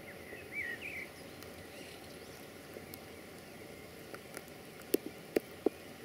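A bird chirps a few times about half a second in, over a steady hiss of rain in the woods. A few sharp ticks come near the end.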